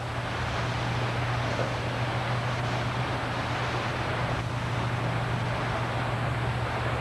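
Stormwater runoff from a turnpike drain pipe rushing steadily down a drainage ditch, with a constant low hum underneath.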